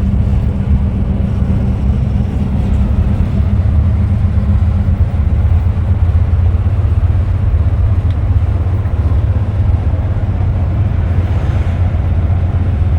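A bus on the move: a steady low drone of its diesel engine and road noise.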